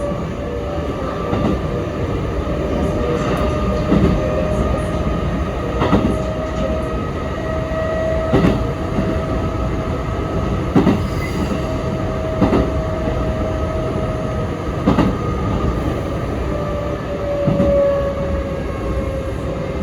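A Sanyo Electric Railway 3050 series electric train running, heard from inside the car. There is a steady low rumble, a held whining tone, and a wheel clack over the rail joints every couple of seconds.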